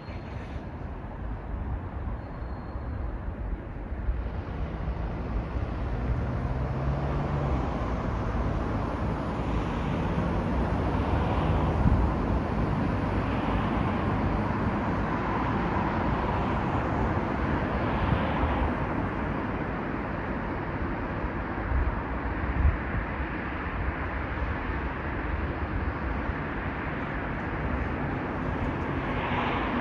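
Road traffic on a main road: vehicles passing with tyre and engine noise, swelling over the first few seconds and then holding steady.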